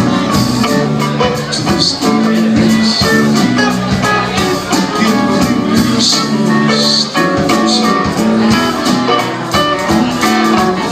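Live band playing: guitar over bass notes with regular drum and cymbal hits.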